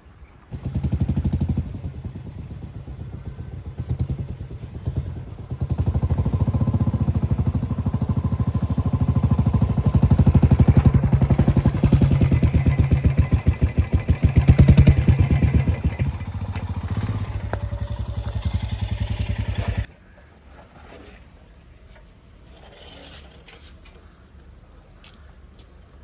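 Motorcycle engine running, coming in suddenly about half a second in, its revs rising for a stretch in the middle and then easing, before it cuts off sharply about twenty seconds in.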